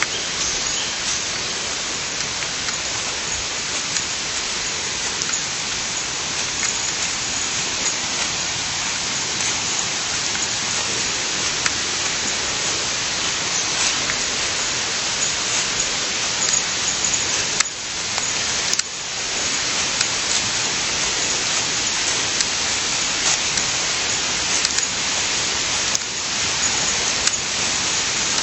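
Steady rushing hiss of running water, with two short knocks about two-thirds of the way through.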